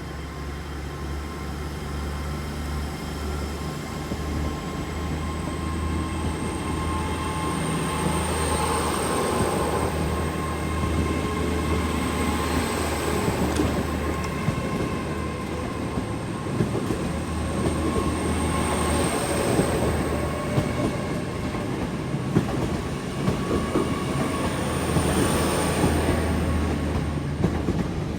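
Great Western Railway train pulling out and gathering speed: a steady low engine hum, a high whine rising in pitch, and wheel clicks over the rail joints that come more often as it gets louder.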